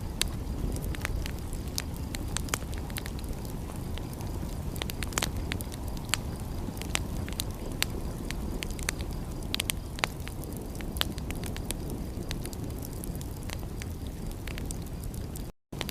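Fireplace fire crackling, with irregular sharp pops over a steady low rumble. The sound cuts out for a moment near the end.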